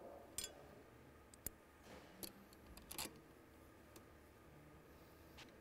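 A few light, separate clicks and taps of small metal engine parts being handled as the stator is fitted to the moped engine, over near silence.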